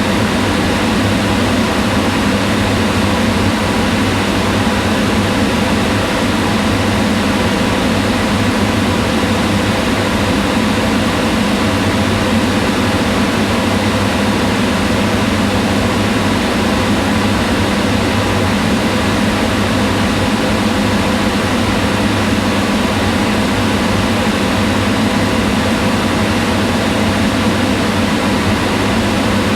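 Kitchen range hood fan running steadily: an even rush of air over a low hum, unchanging throughout.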